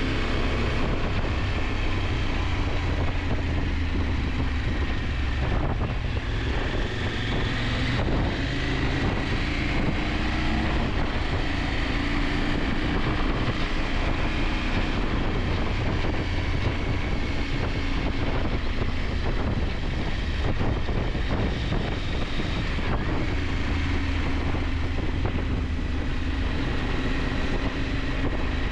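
KTM 890 Adventure's parallel-twin engine running steadily under way, its pitch drifting a little up and down, under a steady rush of wind on the microphone.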